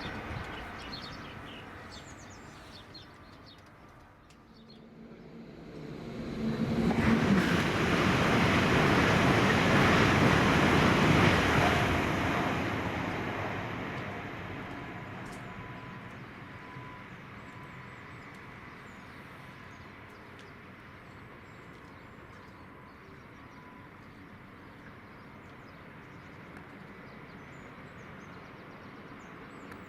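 A train passing at speed on a main line: a rushing roar that builds over a couple of seconds, holds for about five seconds, then fades away. Birds chirp faintly.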